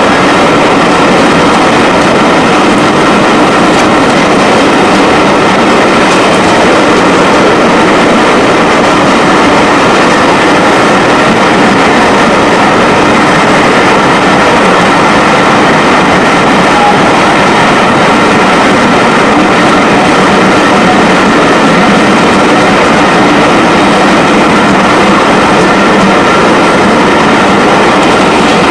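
Railway train on the move: a loud, steady running noise that does not let up.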